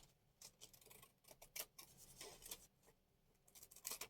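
Scissors snipping magazine paper faintly, in a few irregular short cuts with light paper rustle.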